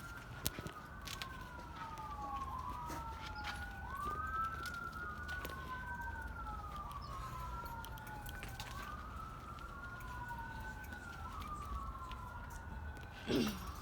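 A wailing siren, one clean tone sweeping slowly up and down again and again, with faint scattered clicks and rustles over it.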